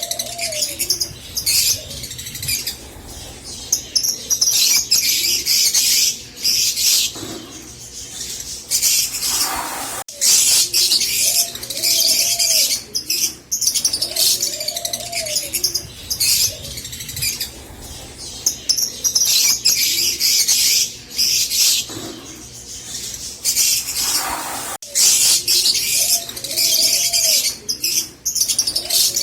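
A flock of rosy-faced (peach-faced) lovebirds chattering, with dense, shrill chirps and lower arching calls. It is a looped recording, with a cut and a restart about every 15 seconds.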